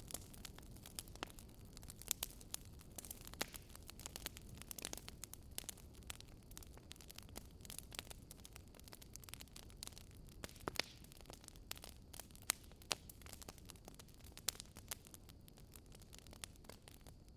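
Wood campfire crackling, with many small irregular pops and snaps and a few sharper ones, over a faint low steady rumble.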